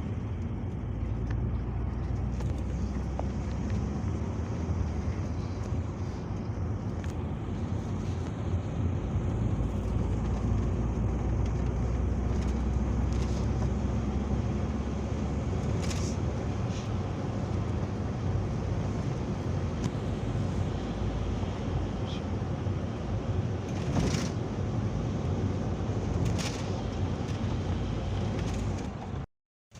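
Peugeot Boxer minibus interior while driving: a steady low engine and road rumble, with a few sharp rattles or clicks about halfway through and later. The sound drops out for a moment just before the end.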